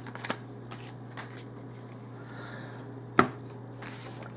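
Magic: The Gathering cards and booster packs being handled: scattered light taps and rustles, with one sharp tap about three seconds in, over a steady low hum.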